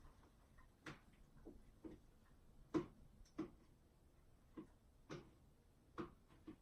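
Faint, irregular clicks and taps, about nine of them, the sharpest a little under three seconds in, over near silence.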